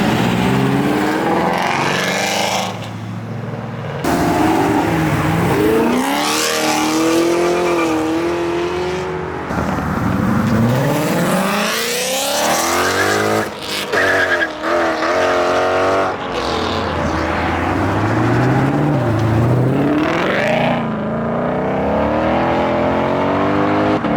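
Several cars accelerating hard one after another, engines revving up through the gears, the pitch climbing and then dropping at each upshift.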